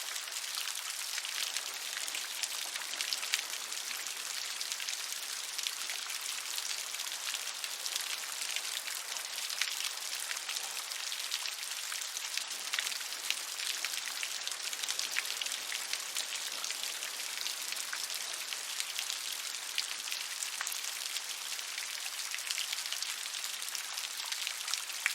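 Steady rain falling, with many individual drops heard as fine, fast ticks over an even hiss.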